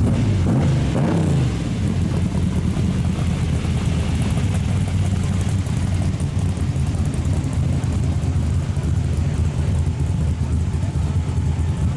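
A vehicle engine running steadily with a low, even rumble, and a brief swell in pitch in the first second or two.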